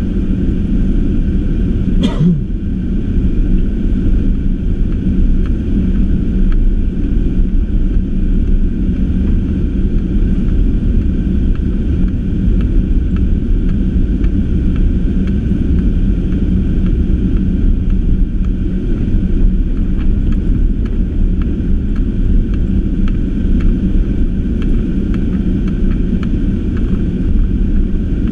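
Car driving, a steady low rumble of engine and tyre noise. A brief sharp click about two seconds in.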